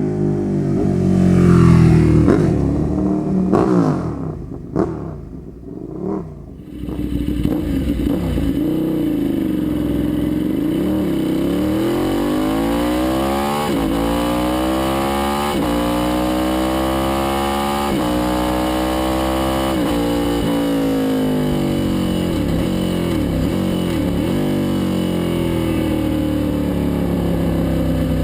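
Ducati superbike's L-twin engine running through a Toce slip-on exhaust and being revved up and down. Quick blips come in the first few seconds. From about seven seconds in it runs steadily, its pitch rising and falling in slow swells.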